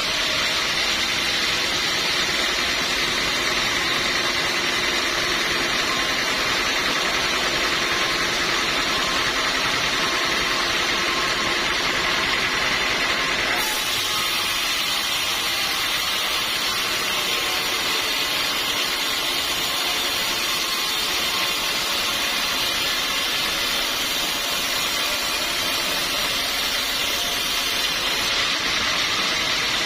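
Sawmill machinery running steadily, a continuous mechanical whine and rush that shifts abruptly about halfway through.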